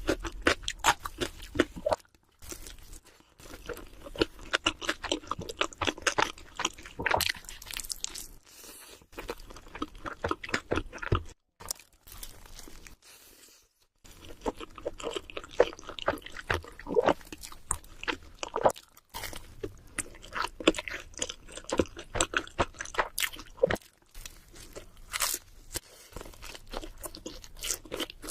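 Close-miked chewing and crunching of cheese seafood pizza, with crisp crust bites and wet mouth sounds in quick runs, broken by a few short pauses.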